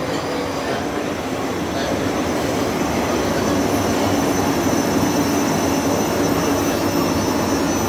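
South Western Railway electric multiple-unit train running past close alongside the platform: steady wheel-on-rail rumble with a steady hum, getting louder about two seconds in as the carriages go by.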